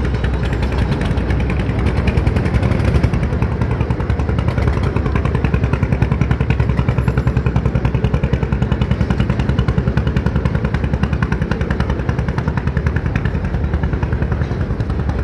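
A motorboat's engine running steadily under way, with a fast, even throb.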